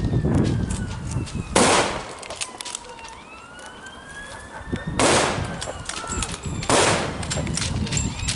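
Three loud gunshots, about a second and a half in, at five seconds and near seven seconds, over a siren whose pitch slowly falls and then rises again.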